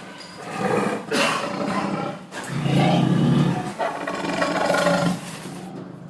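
An animal calling loudly, several drawn-out pitched calls in a row.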